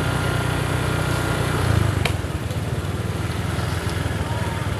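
Small motorcycle engine running steadily at low revs, with a brief click about two seconds in.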